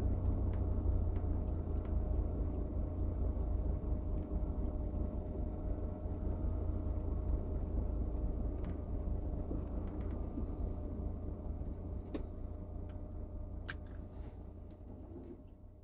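Steady low rumble of a vehicle driving, heard from inside the cabin, with a few faint clicks; it slowly fades out near the end.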